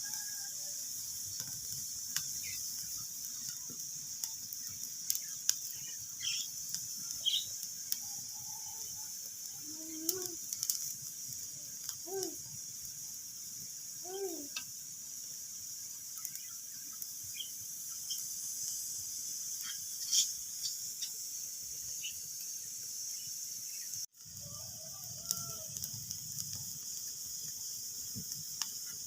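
Wood fire crackling in a fireplace: a steady hiss with scattered sharp pops and crackles. A few short rising-and-falling calls sound in the background around the middle, and the sound drops out for an instant about 24 seconds in.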